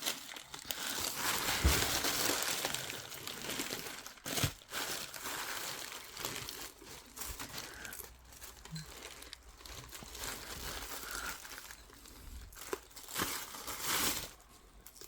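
Crinkling and rustling as a smoked bream is skinned and picked apart by hand, with a few sharp taps.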